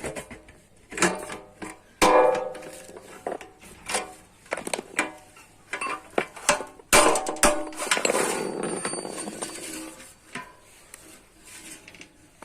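Irregular hammer blows on sheet metal, several strikes followed by a short metallic ring, with a longer rushing, scraping noise about seven seconds in.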